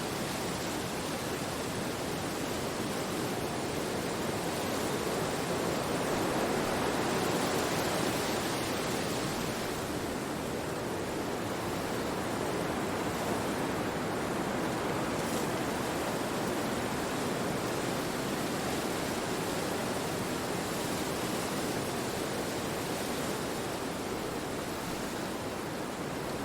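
Wind blowing through forest trees: a steady rushing that swells for a few seconds about six seconds in, then settles back.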